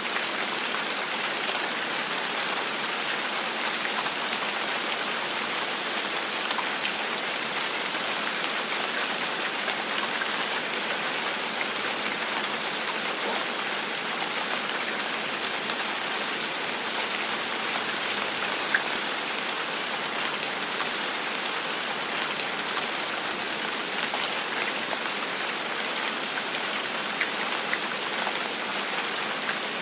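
Steady gentle rain falling on a surface, an even hiss with scattered individual drop taps, one slightly sharper tap about two-thirds of the way through.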